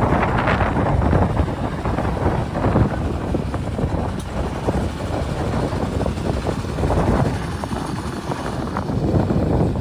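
Heavy diesel vehicle running while on the move: a steady low rumble with a constant rattle of short knocks over it.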